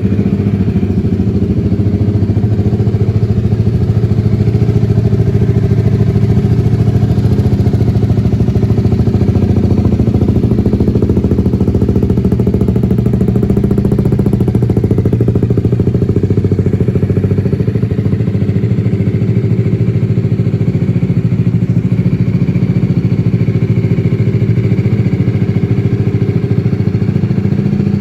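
BMW G310R motorcycle's single-cylinder 313 cc engine idling steadily.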